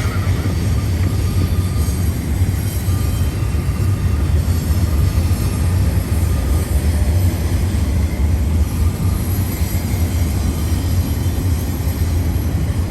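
Cars of a BNSF double-stack intermodal train rolling past close by: a steady deep rumble with wheel-on-rail noise.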